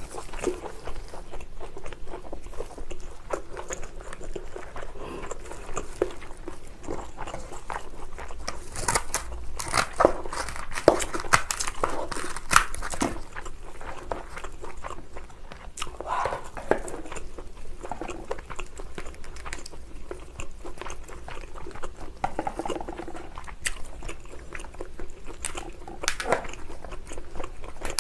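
Chewing and biting while eating lobster: wet mouth sounds with bursts of sharp crunching and crackling, densest around the middle and again near the end.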